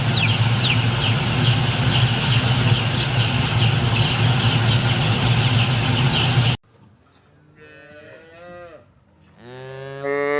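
A dense, steady din with quick high chirps and a low hum cuts off suddenly about six and a half seconds in. A cow then moos twice: first a softer, wavering moo, then a louder, longer one that falls in pitch at its end.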